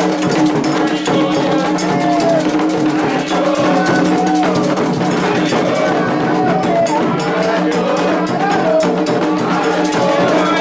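Candomblé ceremonial music: drums and other percussion playing steadily under voices singing a chant.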